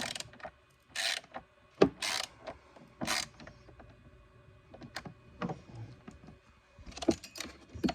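Hand ratchet turning fasteners in four short strokes about a second apart, followed by scattered clicks and knocks of tools and parts.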